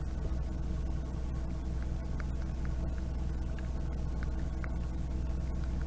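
Narrowboat engine running steadily with a low hum, with scattered light ticks of raindrops hitting the camera.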